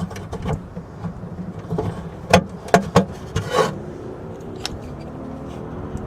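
A few sharp metallic clicks and clinks from a hand rivet gun and rivet being handled and tried, over a steady low hum.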